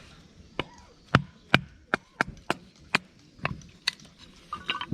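Firewood being chopped or split for a campfire: a string of sharp wooden knocks and cracks, roughly two to three a second, some with a dull thud.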